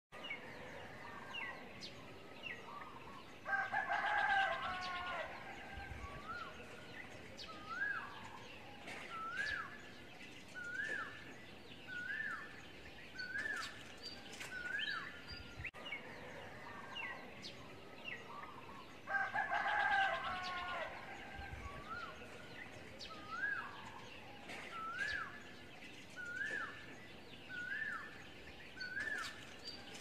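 Repeated bird calls: a short rising-and-falling chirp about every one and a half seconds, with a louder burst of harsher calls about four seconds in. The whole sequence repeats about halfway through.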